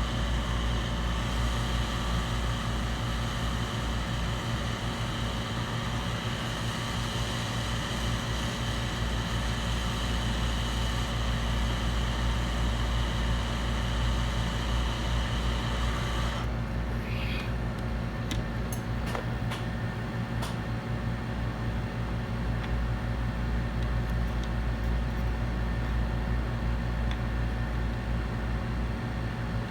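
Steady hum and hiss of a fan or blower motor. The high hiss cuts off suddenly about two-thirds of the way through, leaving the low hum and a few light clicks.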